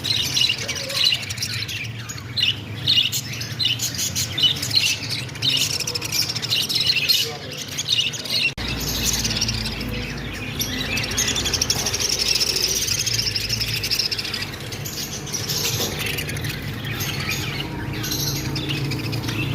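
Small pet parrot chirping and squawking in quick, high calls. After about eight and a half seconds the calls run together into a denser warble, over a low hum.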